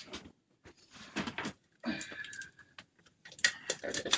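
A hand spray bottle worked with several short, sharp spritzes onto a board, with small handling clicks and a brief squeak about halfway through.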